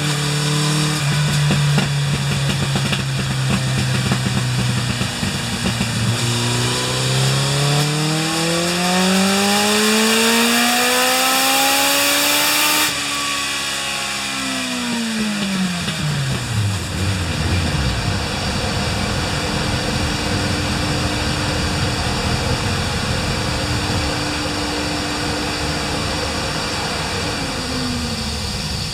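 Suzuki GSX1100S Katana's inline-four engine on a rear-wheel dynamometer power run: it runs steadily at low revs, then climbs smoothly in pitch under full throttle for about seven seconds before the throttle snaps shut and the revs wind down, leaving a steady hum. This is a pre-overhaul power check, in which the owner found it reluctant to pull at high revs, making 87 PS at the rear wheel.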